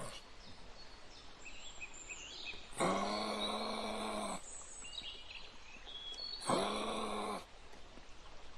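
An animal gives two long, steady-pitched calls, the first about three seconds in and the second about six and a half seconds in. Faint bird chirps sound between them.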